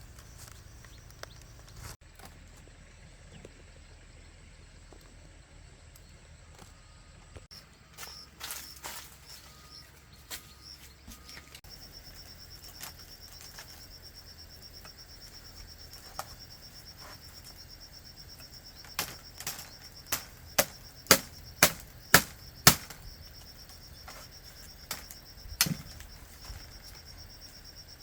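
A steady high insect drone comes in about a third of the way through. Over it come scattered sharp knocks, with a run of loud ones about two a second in the last third, the loudest sounds here.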